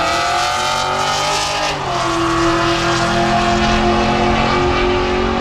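Race cars' engines running during a street drag race, a steady engine note with a second, lower steady note coming in about two seconds in.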